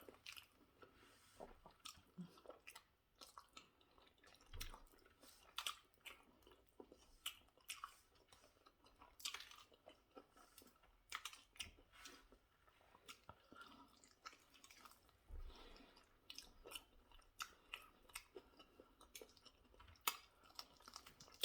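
Faint mouth sounds of a person chewing food, with many small, irregular crunchy clicks and smacks.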